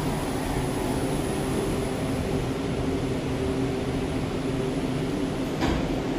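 Steady running rumble of a metro train, with a brief click near the end.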